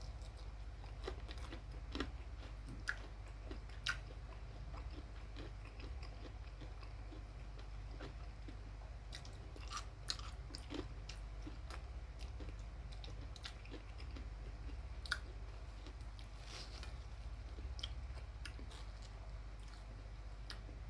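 A person chewing and biting into crispy fried chicken, with scattered small crunches and mouth clicks, over a steady low hum.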